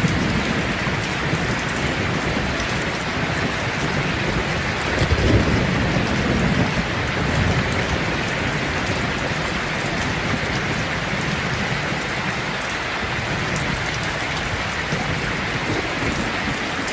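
Steady rain falling in a constant hiss, with a low rumble of thunder swelling about five seconds in.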